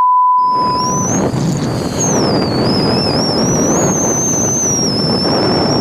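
A steady electronic beep for about the first second, then wind rushing loudly over the microphone of a moving motorcycle, with a high whistle that wavers in pitch.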